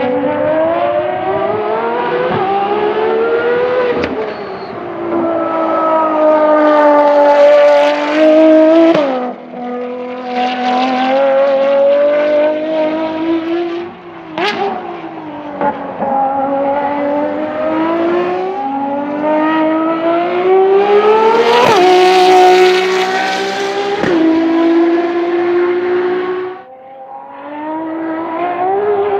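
Ferrari FXX K's V12 engine pulling hard through the gears: each gear's note climbs steadily in pitch, then drops abruptly at the shift, with a sharp crack at several shifts. This repeats about five times, with a short lull near the end before the engine pulls up again.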